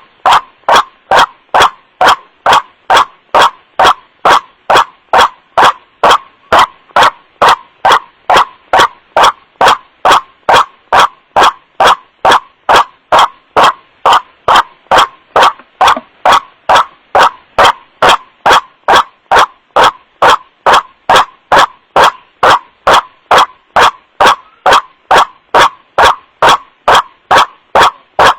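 White-breasted waterhen (kuruak) giving its 'wak-wak' call: a short, harsh note repeated steadily about twice a second, loud and clipping. It is a recorded lure call for attracting waterhens.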